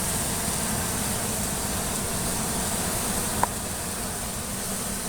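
Steady outdoor background noise: a low rumble under an even high hiss, with one short tick about three and a half seconds in.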